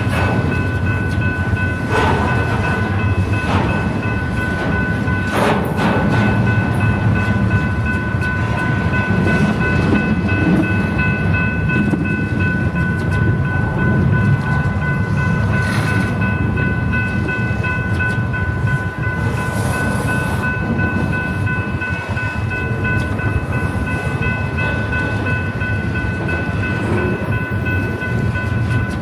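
BNSF train cars rolling past with a steady rumble and occasional clanks. Several steady high-pitched tones ring throughout.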